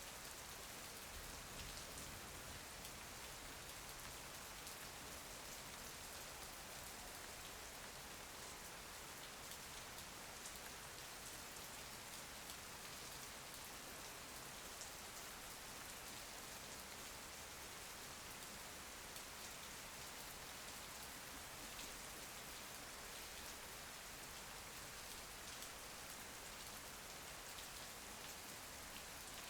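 Steady rain with fine pattering drops, a constant hiss.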